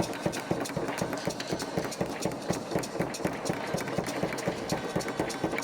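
Rapid, even knocking, about four strikes a second.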